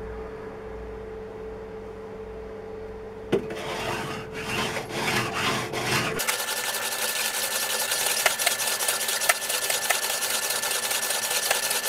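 An abrasive sharpening stone scraping back and forth over a hardened steel blade cut from an old hand-saw plate, grinding it down to size. A knock about a third of the way in, then separate strokes, becoming a fast, continuous rasping scrape about halfway through.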